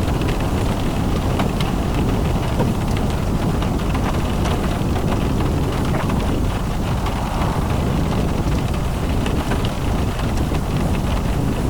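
A car driving in the rain: steady road and wind noise with scattered raindrop ticks, and wind buffeting the microphone.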